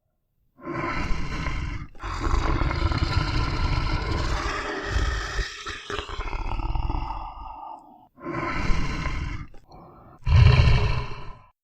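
A large animal roaring in four calls: a short roar, a long drawn-out roar of about six seconds that tails off, then two shorter roars, the last the loudest.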